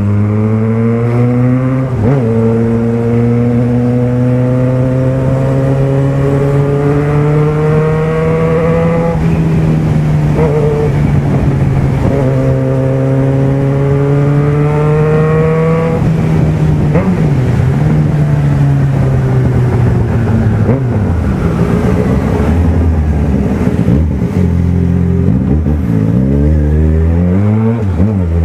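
Yamaha XJ6's 600 cc inline-four engine under acceleration, its pitch climbing through a gear and dropping at each upshift, about nine and sixteen seconds in. It then runs lower and steadier, falls and rises unevenly as the rider eases off and on the throttle, and climbs again near the end.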